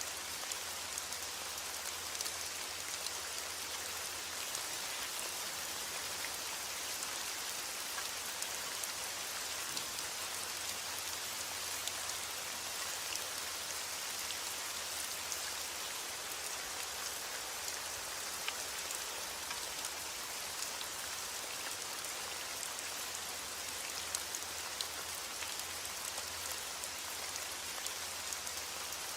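Steady heavy rain falling, an even hiss with many small drop ticks on a hard surface.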